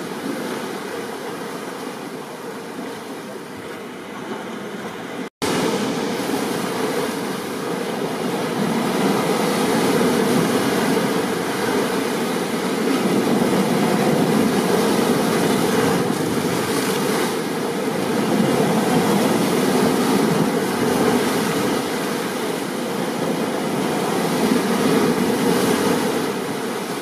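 Stormy ocean surf with rain: a steady rushing noise that swells and eases gently. It cuts out for an instant about five seconds in and comes back a little louder.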